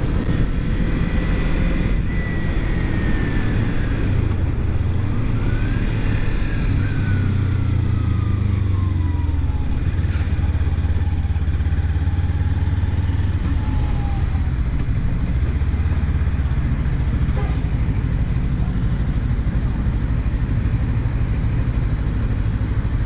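Kawasaki Ninja 300 parallel-twin engine running while the motorcycle is ridden, with a steady low rumble of wind and road noise. The engine note rises and then falls slowly over several seconds.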